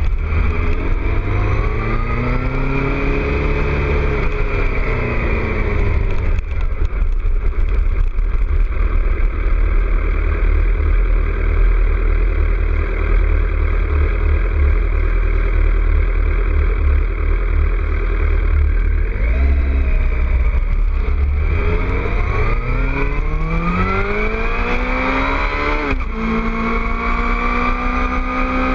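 2006 Suzuki GSX-R 600 inline-four engine through a Two Brothers aftermarket exhaust, revving up and easing off in the first few seconds. Then comes a long stretch of steady cruising under wind noise, and finally a long climb in revs that drops sharply at an upshift near the end.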